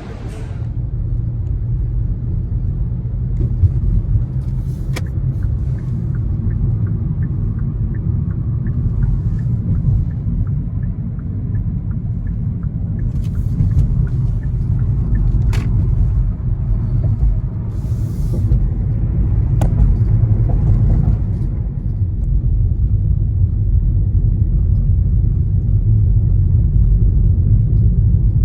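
A steady low rumble, like vehicle or cabin noise, with a few scattered sharp clicks.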